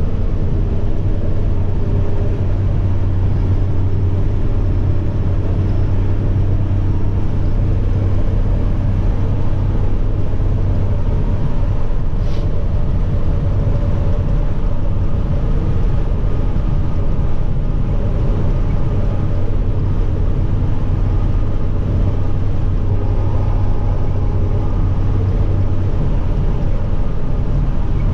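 Semi truck's diesel engine running steadily: a deep, even drone with a faint turbo whine above it, and a single sharp click about twelve seconds in.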